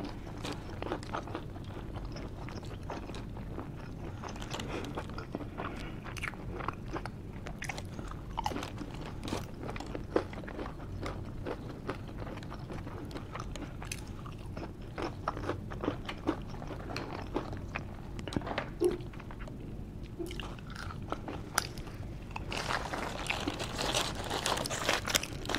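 Close-miked chewing of a cheesesteak sandwich, with many small clicks from the mouth. Near the end, the aluminium foil wrapper crinkles as the sandwich is handled.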